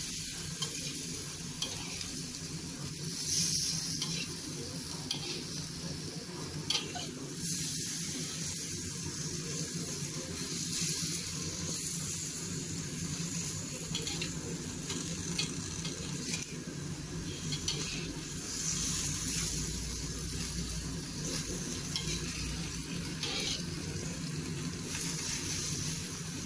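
Frog meat sizzling steadily in hot oil in a pan while it is stir-fried, with scattered short clicks and scrapes of the stirring utensil against the pan.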